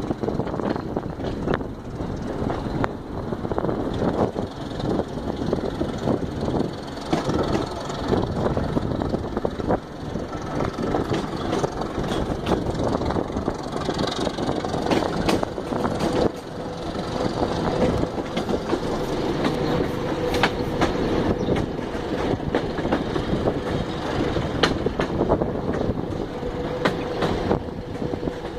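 Running noise of a moving passenger train heard at an open carriage window: a steady rumble and rattle of the wheels on the track, with frequent sharp clicks over the rails. A faint steady tone joins about halfway through.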